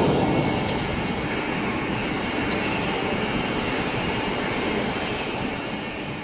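Vertical turning lathe running, a steady mechanical rumble and hiss of machine and shop noise that eases off slightly toward the end.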